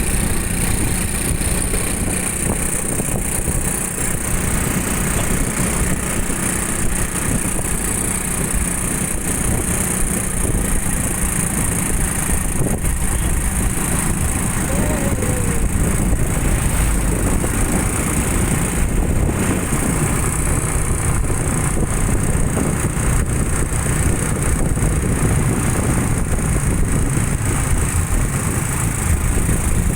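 Motorcycle riding through traffic: a steady engine rumble mixed with wind and road noise.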